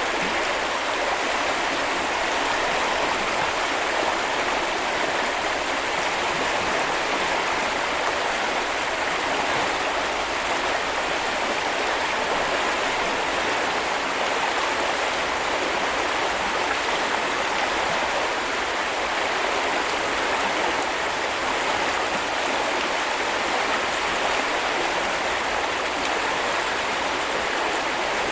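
River water flowing and splashing steadily over stones, a constant rushing with no pauses.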